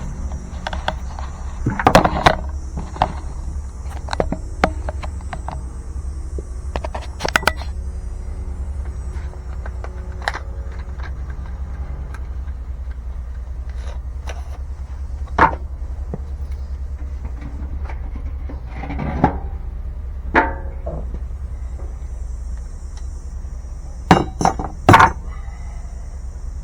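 Scattered clinks and knocks of metal tools and parts being handled, loudest about two seconds in and in a quick cluster near the end, over a steady low hum.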